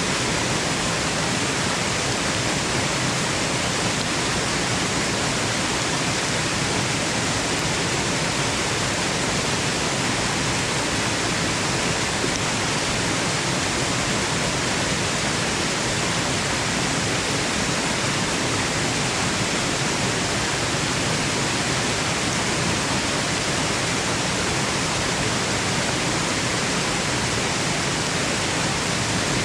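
Waterfall rushing: an even, unchanging roar of falling water that works as a white-noise bed.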